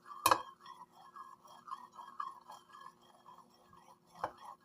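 Metal spoon stirring oil and food colouring in a bowl, scraping and tapping against the bowl, with a sharp clink just after the start and another near the end.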